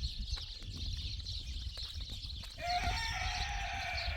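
A rooster crowing once, a single long call starting about two and a half seconds in.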